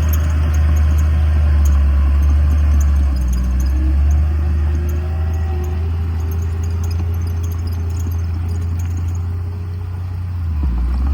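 Heavy earthmoving machinery's diesel engine running steadily with a deep drone, easing slightly near the end before picking up again.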